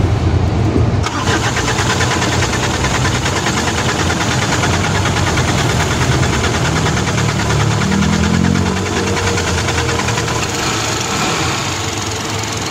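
4M50 four-cylinder diesel engine started and running with a fast, even diesel clatter. It catches about a second in, after a moment of cranking, and the revs rise briefly about eight seconds in. The injector return lines are disconnected to check for excessive injector return, one cause of hard starting.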